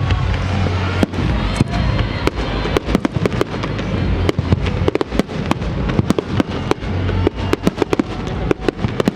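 Fireworks display: a rapid, irregular string of sharp bangs and crackling pops, several each second, with music playing underneath.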